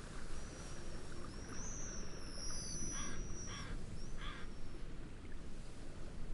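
Steady low rush of wind and gentle waves, with high thin bird whistles gliding across it in the first half. Near the middle, three short bird calls come about two-thirds of a second apart.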